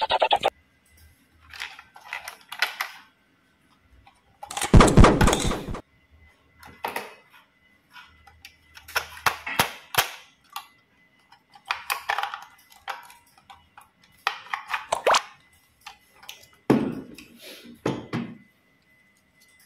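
Toy trains and pieces being handled, giving intermittent clattering and clicks, with one louder pitched sound about five seconds in that lasts a second or so.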